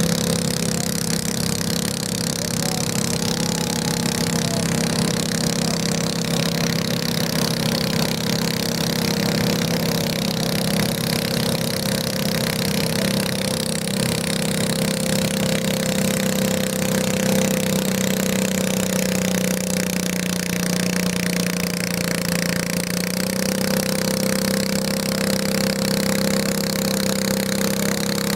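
Garden tractor engine running at a steady speed. Its pitch sags slightly about twenty seconds in and picks back up about three seconds later.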